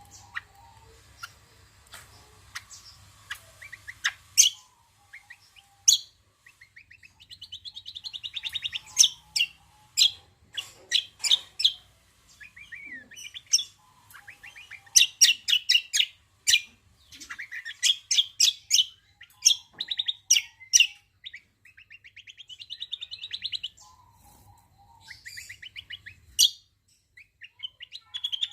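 Kecial kombo (cucak kombo) singing its lively song: repeated bursts of fast rattling trills broken by sharp clicking chips, a phrase every second or two. A low steady hum lies underneath and stops shortly before the end.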